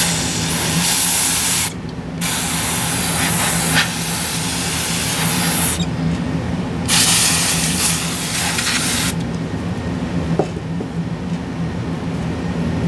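Spray can hissing in three long bursts, each one to three and a half seconds long with brief pauses between, as it blasts a clump off graphics-card parts.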